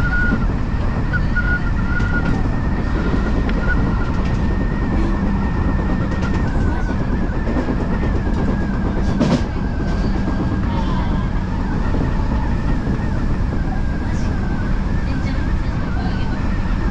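Odakyu Line electric commuter train running along the track: a steady rumble of wheels on rail with a high steady whine over it, and one sharp click about nine seconds in.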